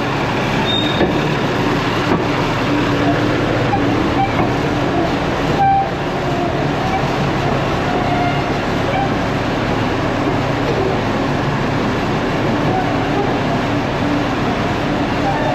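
IH Dresser TD25G crawler bulldozer running, a steady, loud heavy-machine drone with a brief dip a little over five seconds in.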